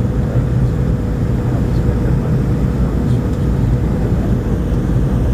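Steady low rumble of a McDonnell Douglas MD-82's twin rear-mounted Pratt & Whitney JT8D turbofans at climb power, with a faint steady hum running through it.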